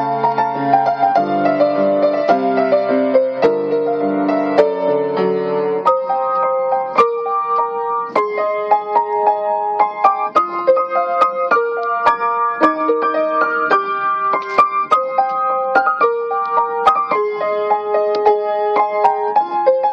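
Solo piano playing a song arrangement: full chords with low bass notes for the first six seconds or so, then a lighter, higher part with a melody of repeated notes over sparse accompaniment.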